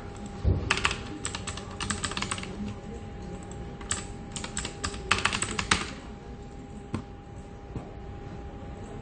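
Typing on a computer keyboard in two quick flurries of key clicks, then a few single keystrokes, over a faint steady hum.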